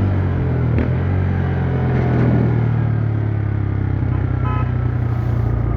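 TVS Raider 125's single-cylinder engine and exhaust running steadily on the move, with a brief high beep about four and a half seconds in.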